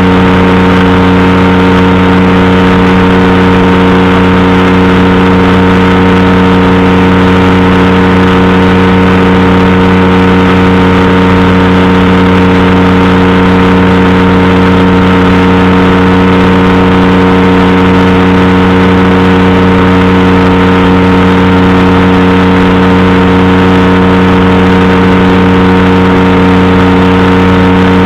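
Powered parachute's engine and propeller running loud and steady, holding one constant pitch without any change in speed.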